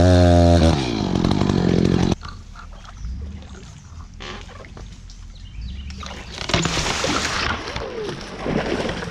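Gas chainsaw running at full throttle, dropping in pitch under a second in and cutting out about two seconds in. Quieter splashing and sloshing of water follows, louder for a moment near the middle.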